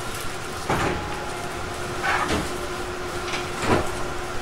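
Interior running sound of a Tobu 50050-series electric train car: wheels clacking over rail joints about every one and a half seconds, over a steady hum that includes the car's air conditioning.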